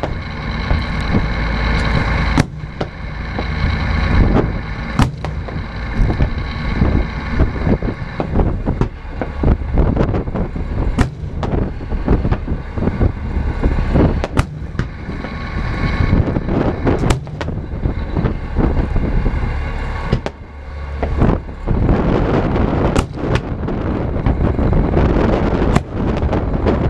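Fireworks exploding in quick succession, sharp bangs over a steady low rumble of wind on a small action-camera microphone.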